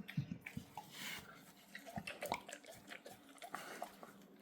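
Bull terrier chewing sideways on the empty fabric shell of a plush toy hedgehog: faint, irregular clicks and ticks of teeth and mouth working the cloth.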